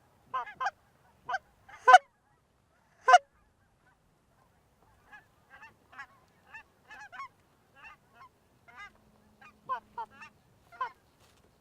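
Canada goose honking and clucking: a few loud, close honks in the first three seconds, then a quicker run of fainter clucks and honks.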